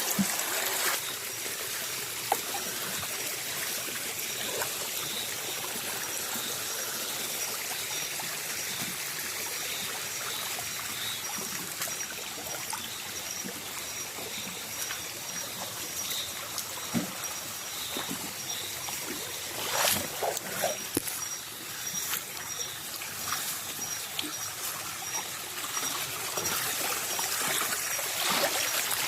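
Shallow stream water trickling steadily, with a few splashes about two-thirds of the way through and again near the end. A faint high chirp repeats evenly over it.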